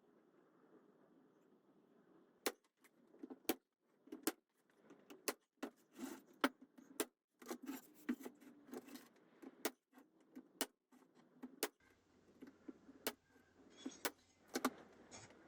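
Pin nailer firing pins into wood: a dozen or so sharp clicks at irregular intervals, with lighter handling clatter between them.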